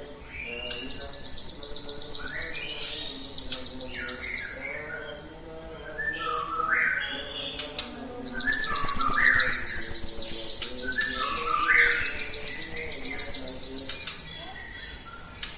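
Cinereous tit (gelatik batu) singing: two long, fast, high trills of about ten notes a second, each lasting several seconds, with lower chirps between and beneath them.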